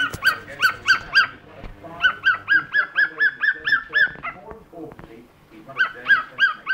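Cockatiel imitating a dog's bark: rapid runs of short, high yapping calls, several a second, each dropping in pitch. The calls come in three bursts, with a pause of over a second before the last.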